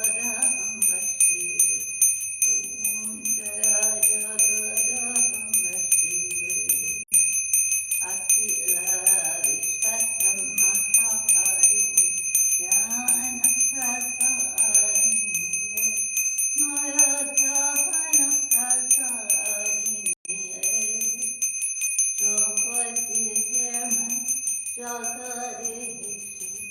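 A small hand bell rung continuously with rapid strikes, its steady high ring breaking off for an instant twice. Under it a voice chants in sung phrases.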